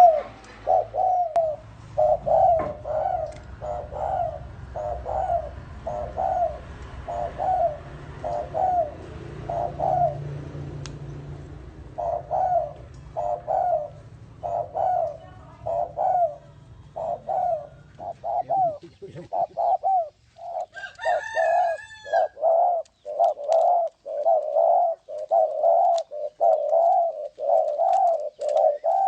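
Spotted doves cooing over and over in short, evenly repeated notes. A low steady hum lies under the calls until about two-thirds of the way through, and a brief higher bird chirp comes in near the end.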